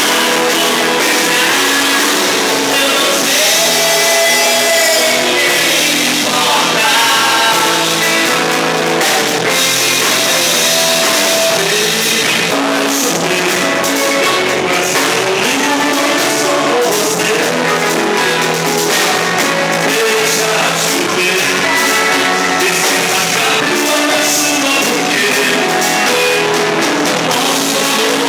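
Rock band playing live: drum kit and electric guitar, with a voice singing at times.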